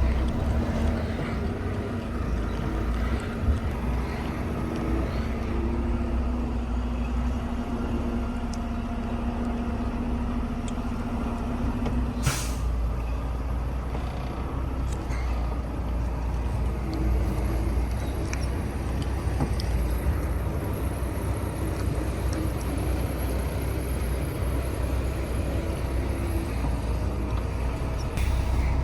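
Semi-truck diesel engine idling with a steady low rumble. A short hiss of air-brake air comes about twelve seconds in, and again near the end.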